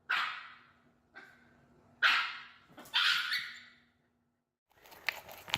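A dog barking: three sharp, short barks about a second apart, with a fainter one between the first two.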